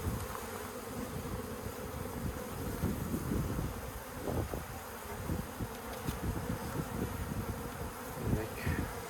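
Swarm of honeybees buzzing, many bees in flight around the opened colony, a steady dense hum.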